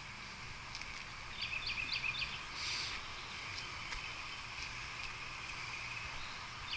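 Songbird calling outdoors: a quick run of about four short chirps about a second and a half in, then another call, over a steady high background hiss.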